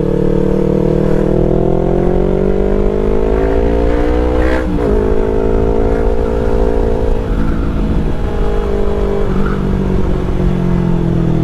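Yamaha R3's parallel-twin engine pulling while riding, its pitch rising steadily, with a quick gear change about four and a half seconds in. It then holds speed and eases off in the second half, picking up again near the end, with wind rumble underneath.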